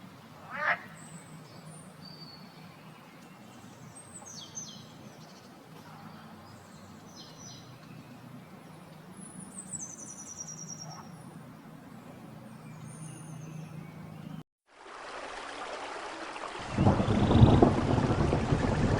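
Forest birds chirping, with short high descending trills and one louder call less than a second in. After a sudden cut near the end, a loud rushing noise takes over.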